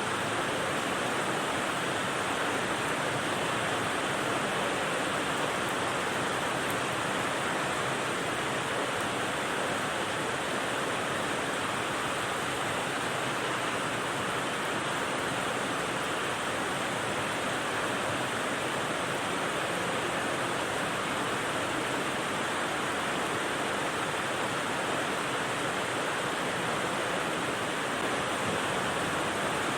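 Steady rain white noise: an even, unbroken hiss with no separate drops, gusts or changes in level.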